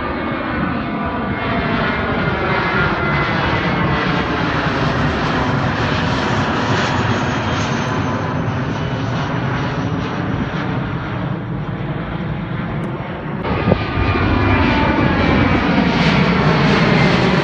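Jet airliner engines at take-off power as the aircraft climbs low overhead, a dense steady rush with slowly sweeping bands as it passes. About 13 seconds in the sound cuts abruptly to another loud jet departure, which stops suddenly near the end.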